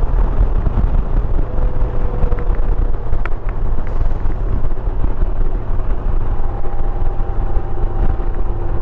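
A 2021 Honda Gold Wing Tour motorcycle under way: wind rushing over the microphone, over the steady low drone of the bike's flat-six engine and road noise.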